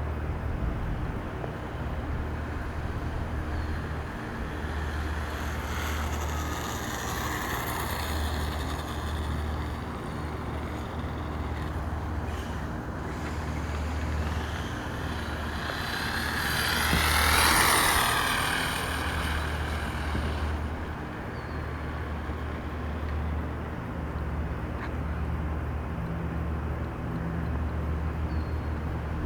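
1/5-scale Redcat MT RC truck's 8S electric motor whining as the truck drives by twice, its pitch sweeping up and down, louder on the second pass about seventeen seconds in. A steady low hum runs underneath.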